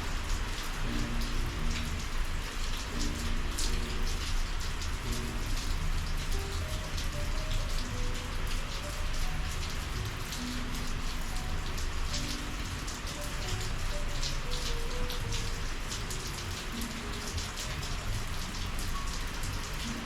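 Steady summer monsoon rain falling, with many sharp individual drops striking close by over an even wash of rain noise.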